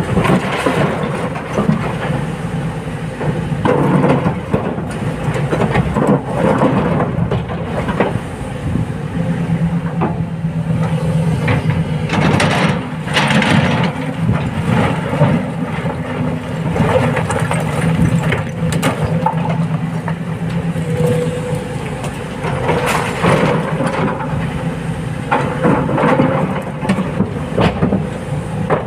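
Heavy diesel excavator engine running steadily under load, with repeated clattering and scraping of rock and stone as the machine loads a dump truck.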